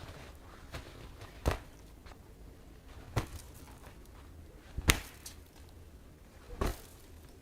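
Four sharp knocks at an even, unhurried pace, about one every second and a half to two seconds, over a low steady background rumble.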